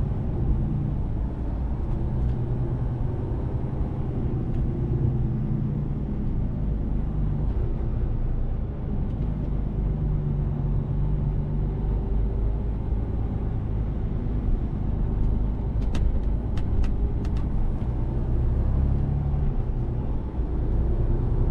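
Mercedes-Benz Actros truck's diesel engine running under way, a steady low drone whose pitch rises and falls gently with engine speed. A few short, sharp clicks come about three-quarters of the way through.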